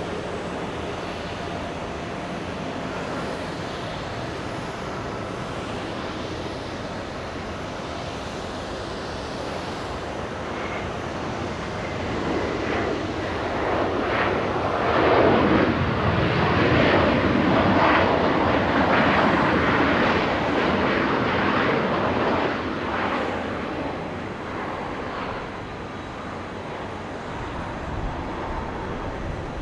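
Jet airliner engines passing, a roar that swells to its loudest about halfway through and then fades.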